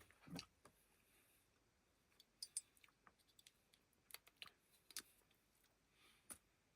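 Near silence with a scattering of faint, sharp clicks and light taps, typical of a bottle, utensil or food bag being handled while seasoning food.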